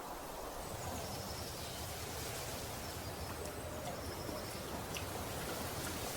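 Rainforest ambience: a steady hiss of background noise with several short, high-pitched bird calls scattered through it.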